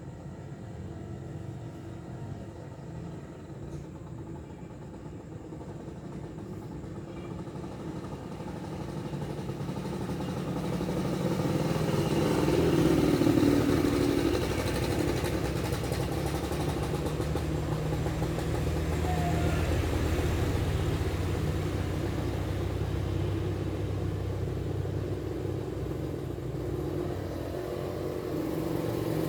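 An engine running steadily, growing louder over the first half and staying loud after.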